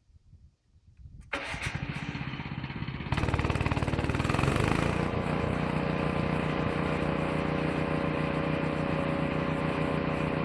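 Small petrol engine of a woodchipper-shredder starting up about a second in, getting louder near three seconds in as it picks up speed, then settling into a steady run.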